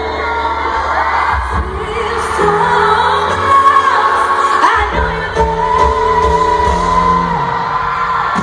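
Live pop ballad: a woman's voice singing long, sliding, wavering notes without clear words over keyboard chords and band backing.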